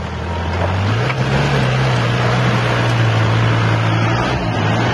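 Four-wheel-drive jeep engine revving up about a second in and holding at a steady higher pitch under load, over a broad rushing noise.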